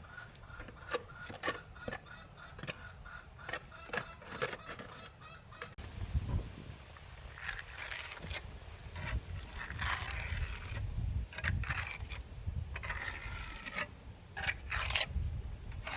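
Domestic poultry calling, mixed with scattered clicks and knocks. From about six seconds in, a low rumble and bursts of noise join it.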